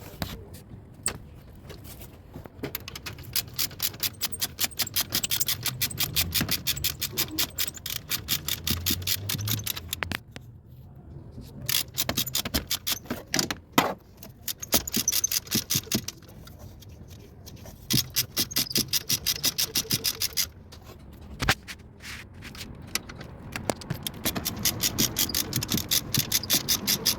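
Hand ratchet wrench clicking in repeated bursts of quick, even clicks, with short pauses between the bursts, as a fitting is turned during AC compressor valve work.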